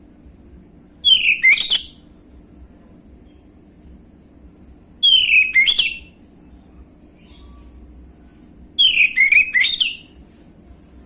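Orange-headed thrush (anis merah) singing three short phrases about four seconds apart, each a quick run of whistled notes sliding downward.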